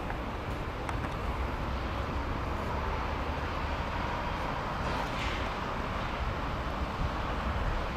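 2015 Toyota Land Cruiser Prado engine idling steadily, just after being started.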